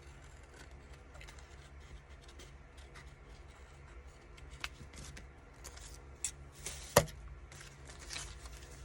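Papers being handled and shuffled on a crafting table, with scattered light taps and clicks, the sharpest one about seven seconds in. A steady low hum runs underneath.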